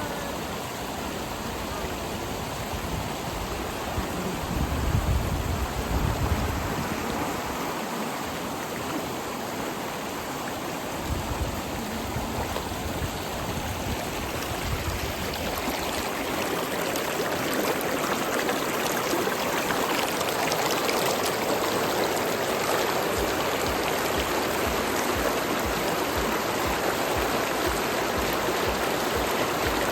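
River water flowing, a steady rush that grows louder about halfway through, with a brief low rumble about five seconds in.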